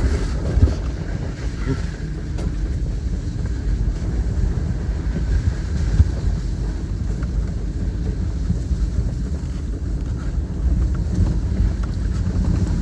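Toyota Tacoma pickup driving off-road: a steady low rumble of engine and tyres on rough ground, with a couple of brief knocks from the truck jolting over bumps.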